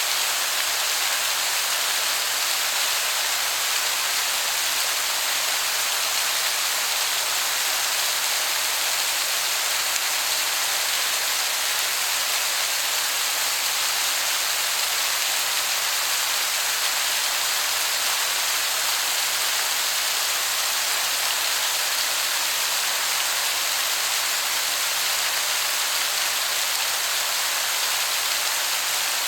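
Waterfall, heard as a steady rushing hiss much like heavy rain, with no change in level.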